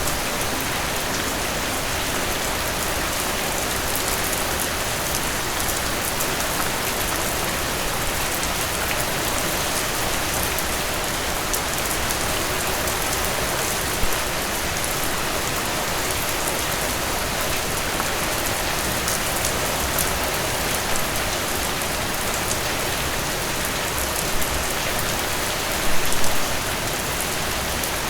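Heavy rain falling steadily on a surface, a dense even hiss of drops, with a couple of brief louder moments, one a little after halfway and one near the end.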